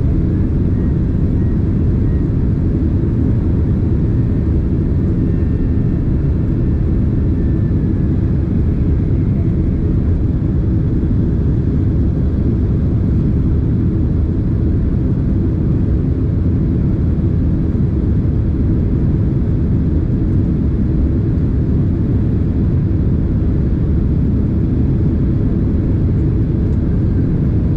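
Boeing 767 cabin noise: the steady, low rumble of the jet engines and airflow, unchanging throughout.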